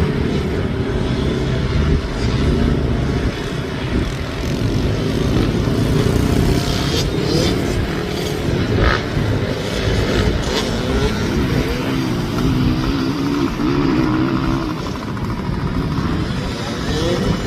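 Small two-stroke motocross bike engines revving up and down as they ride the dirt track, the pitch rising and falling with the throttle.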